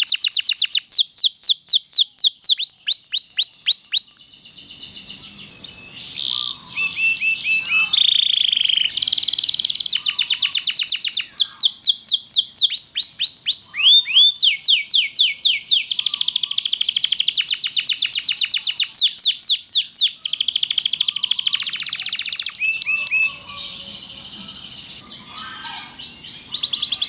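Domestic canary singing long trilling phrases: fast runs of repeated down-slurred notes, several a second. Its singing softens briefly about four seconds in and again near the end.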